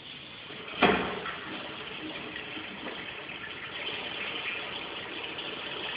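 Laundry faucet turned on: water starts with a sudden gush a little under a second in, then runs steadily into the sink.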